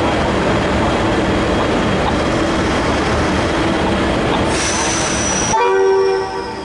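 V/Line VLocity diesel multiple unit running at the platform with a steady engine hum. A high hiss starts about four and a half seconds in, then a short, loud train horn blast sounds about a second later and cuts off after under a second.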